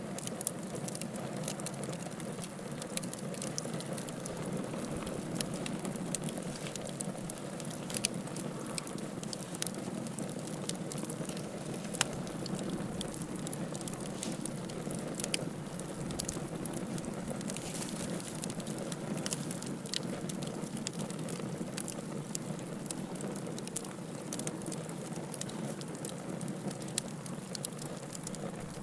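Wood fire burning in a fireplace, crackling and popping with many small irregular snaps over a steady low rush of flame.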